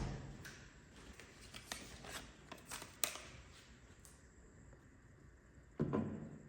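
Kitchen handling sounds: a few light clicks and taps in the first half, then a dull thud near the end.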